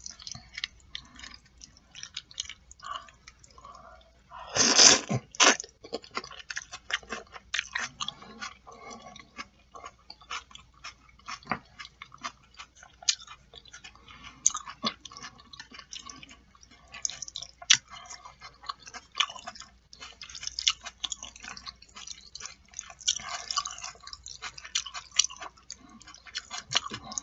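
Close-up wet chewing and mouth sounds of someone eating black bean noodles (jajangmyeon): many small smacks and clicks, with a louder noise about five seconds in.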